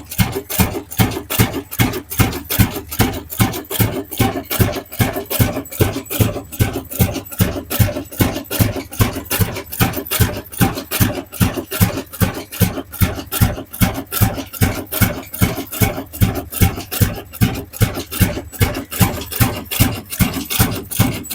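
Old diesel engine running steadily, its exhaust giving an even, regular beat of a few thumps a second with no change in speed.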